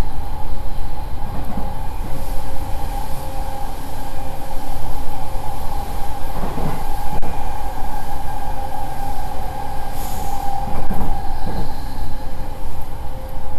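JR East E231 series 800 subseries electric commuter train running at close to 90 km/h, heard from inside the car: a steady low rumble of the wheels on the rails with a steady whine over it.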